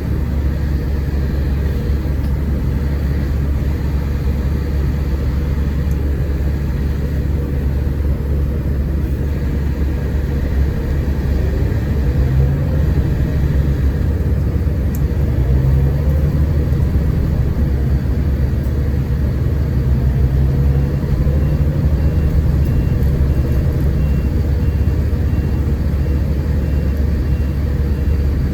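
Scania K410IB coach under way, heard on board: a steady low drone of engine and road noise. About twelve seconds in, the engine note comes up, rising and falling a few times, and the sound gets a little louder.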